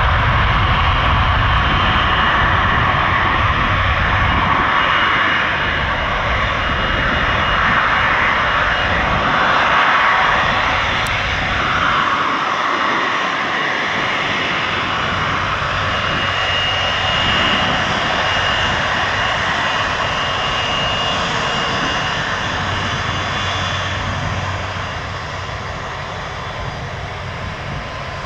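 Airbus A330-300's two Rolls-Royce Trent 700 turbofans at takeoff thrust: loud, steady jet-engine noise with a faint high fan whine, its tone sweeping as the aircraft moves, then slowly fading near the end.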